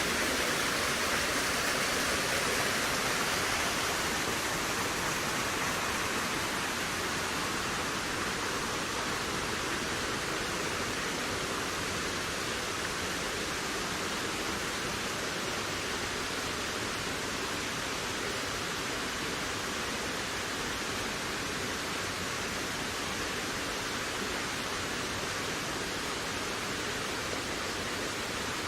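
Wind blowing steadily, an even rushing hiss that eases slightly after the first few seconds.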